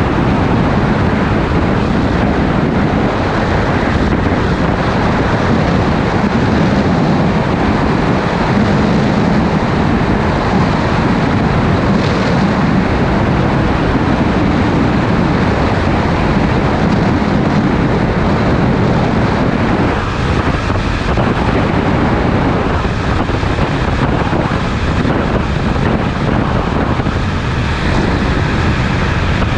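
Sport motorcycle cruising at a steady speed: an even engine drone under heavy wind rush on a helmet- or bike-mounted action-camera microphone.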